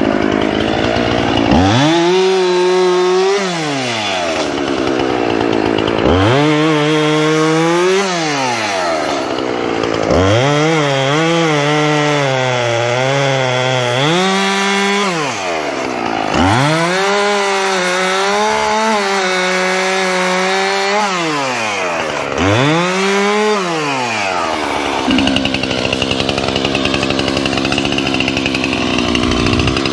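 Two-stroke chainsaw cutting: five bursts at full throttle, each a few seconds long, the engine pitch climbing, wavering under load, then falling back to idle. It runs steadily at low speed near the end, then revs up again.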